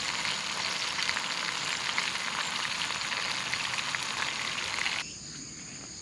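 Food frying in a pan, a dense sizzle with fine crackles, which cuts off suddenly about five seconds in.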